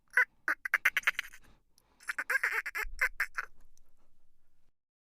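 Birds calling in two quick runs of short, rapid notes, several a second, then the sound cuts off abruptly near the end.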